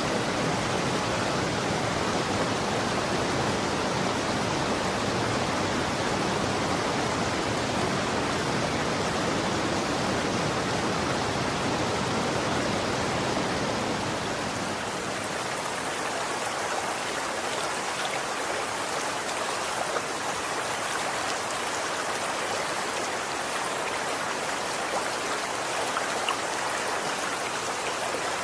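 Running water, a steady rushing flow. About halfway through the deep low end drops away and the flow turns lighter, with a few small drip-like clicks.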